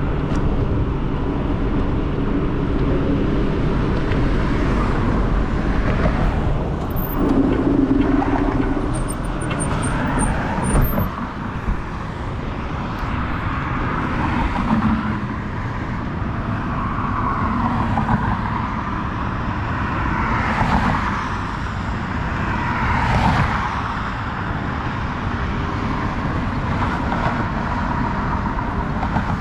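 Wind buffeting a GoPro's microphone during a ride on a Giant e-bike, with steady rolling and road noise and a faint steady whine in the second half.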